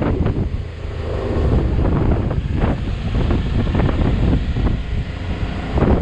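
Motorcycle engine running on the move, with heavy wind buffeting on the microphone.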